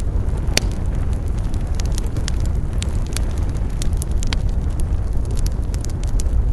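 Wood campfire burning with a steady low roar of flames and frequent sharp crackles and pops, the loudest pop about half a second in.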